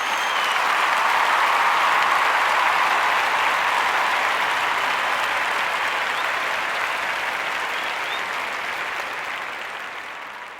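Crowd applause, building over the first couple of seconds and then slowly fading away.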